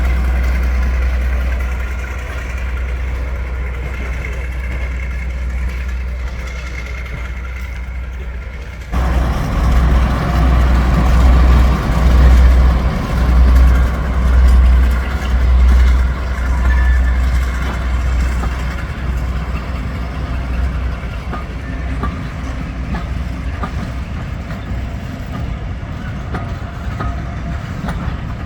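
Heritage diesel locomotive engine running with a deep rumble. About nine seconds in, the sound jumps louder and throbs unevenly for several seconds before settling back to a steady run.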